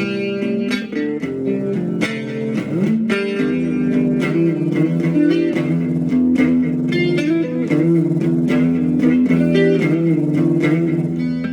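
Instrumental guitar music: plucked notes over held low bass notes, with one sliding glide in pitch about two and a half seconds in.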